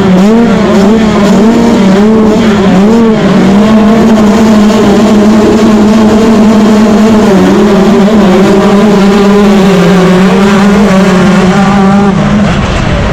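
Yamaha YZ125 two-stroke single-cylinder motocross engine running hard at high revs, loud, its pitch rising and falling as the throttle is worked.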